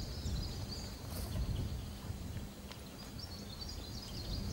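Small birds chirping in short, high twittering phrases over a low, steady rumble.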